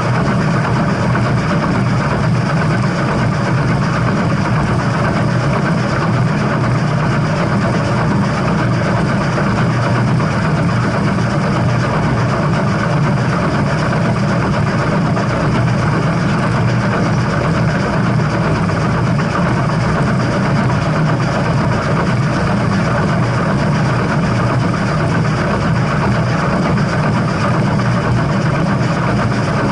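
Steam-hauled train running, a loud, steady rumble and rush of noise with no clear beat or breaks.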